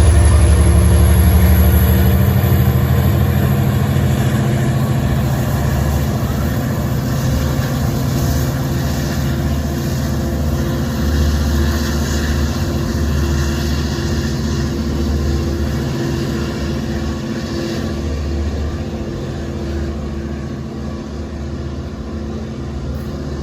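Diesel locomotive of a passenger train running under power, its engine drone rising in pitch over the first few seconds and then fading slowly as the train moves away.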